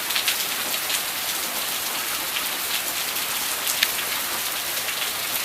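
Heavy rain pouring steadily, with a few sharp ticks of individual drops striking close by.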